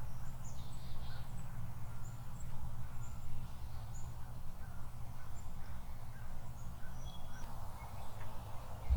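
Outdoor morning ambience: a steady low rumble, typical of wind on the microphone, with faint, scattered chirps from small birds.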